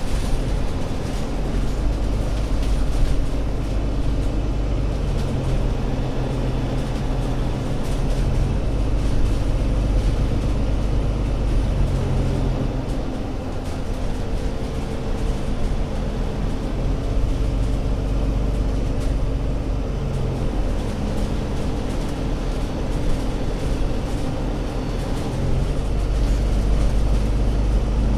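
Alexander Dennis Enviro500 MMC Euro 6 double-decker bus engine running steadily, a low hum whose pitch shifts up and down several times as the revs change.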